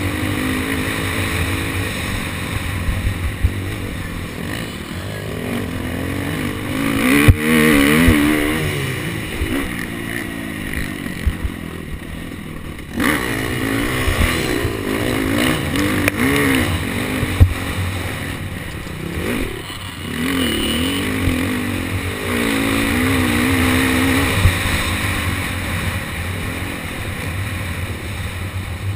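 KTM SX250F's single-cylinder four-stroke engine revving up and falling back over and over as the motocross bike is ridden round the track, with a few sharp knocks from the bike, the loudest about seven and seventeen seconds in.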